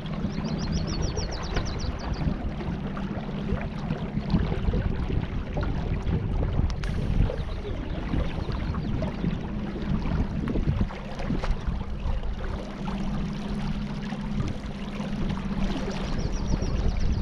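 Wind buffeting the microphone over water lapping and splashing against a small boat's hull, with irregular knocks and a steady low hum underneath. A brief high, rapid trill comes twice, near the start and near the end.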